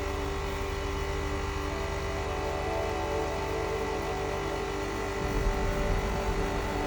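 Generator prototype running steadily: a machine hum with several steady tones and a high whine, and a low rumble that swells briefly about five seconds in.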